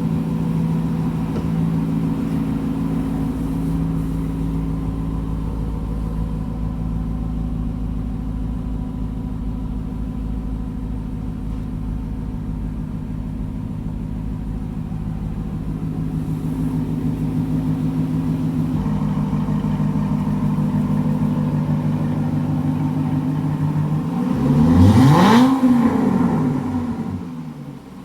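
Aston Martin V8 Vantage's 4.7-litre V8 idling steadily through its exhaust. Near the end it is revved once: the pitch climbs quickly and then falls back toward idle.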